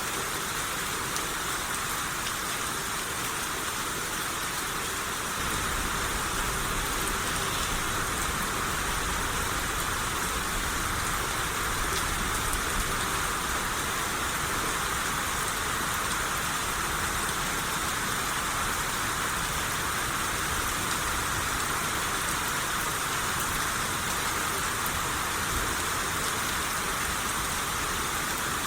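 Steady rain shower, an even hiss of many falling drops. A low rumble comes in about five seconds in and carries on under the rain.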